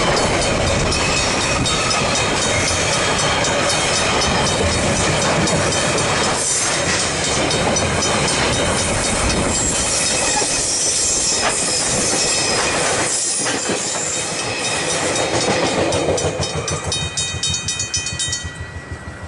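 Freight train wagons rolling past over the crossing, wheels clattering on the rails, with the crossing's Griswold mechanical bells ringing in a steady rhythm. Near the end the train noise falls away, the bell strikes stand out on their own, and then they stop.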